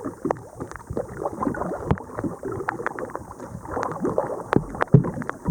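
Kayak paddling: the paddle blades dip and splash in the lake water, with many small irregular splashes, drips and knocks, the strongest near the end.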